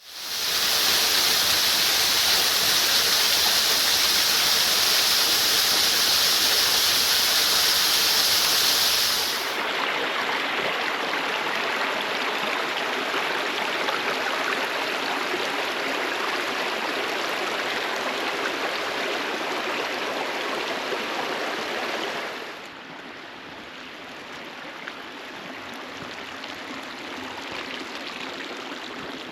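Waterfalls running steadily, in three stretches that change abruptly about nine and twenty-two seconds in, each quieter than the one before.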